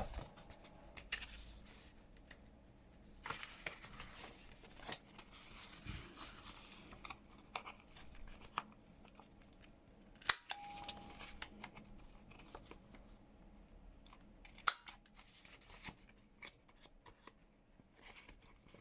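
Paper pages shuffled and rustling, with a corner-rounder punch snapping through a stack of pages: two sharp clicks about four seconds apart, starting about ten seconds in.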